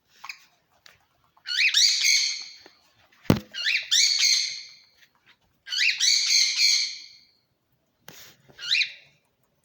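A pet bird squawking loudly four times: harsh, drawn-out calls, each rising at the start and then held for about a second. A single sharp knock sounds about a third of the way in.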